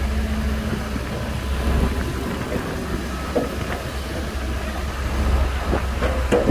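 Shantui bulldozer's diesel engine running with a steady low rumble, with a few short metallic clanks near the end.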